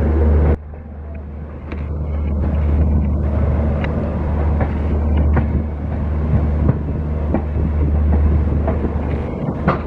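Running noise of a passenger coach on the move: wheels rumbling over track with scattered clicks and knocks as they cross rail joints and points, over a steady low drone. The sound drops abruptly about half a second in, then builds back up.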